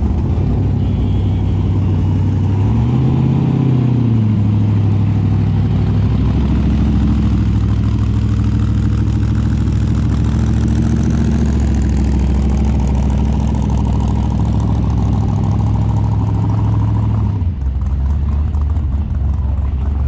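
Car engine running, with one brief rev about three seconds in, then a steady drone that changes near the end.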